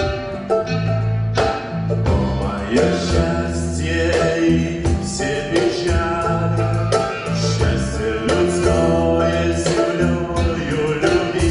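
Folk band playing live, with voices singing over a repeating bass line and regular percussion hits.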